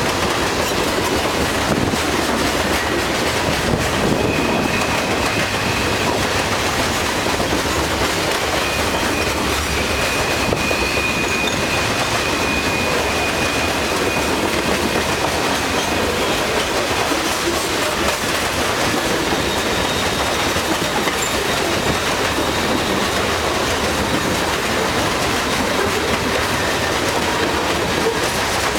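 CSX freight train rolling past, a steady rattle of wheels and cars on the rails. Faint high wheel squeals come in about four seconds in, again from about nine to fourteen seconds in, and faintly near twenty seconds in.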